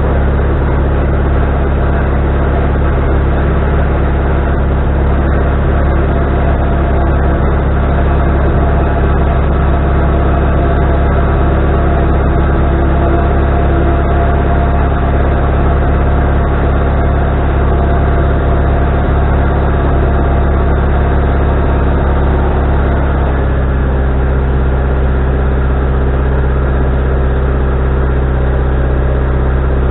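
Wood-Mizer LT40HD sawmill's engine running steadily, with a low, even drone. About 23 seconds in its tone shifts slightly, as the engine's speed or load changes.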